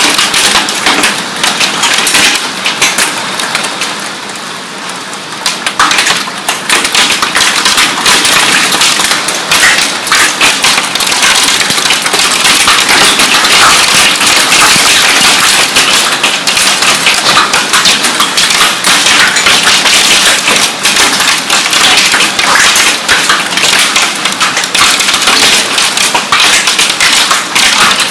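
Heavy hail pelting hard surfaces: a dense, rapid clatter of countless stone impacts over the hiss of the storm. It eases briefly a few seconds in, then comes on heavy again.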